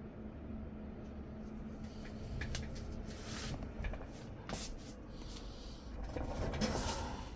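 Hands handling parts and objects at close range: a scattered run of light clicks and knocks with rustling, busiest near the end.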